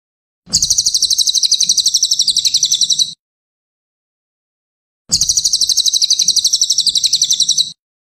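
Cililin bird singing: two high, rapid trills of about ten notes a second, each lasting about two and a half seconds, with a pause between them.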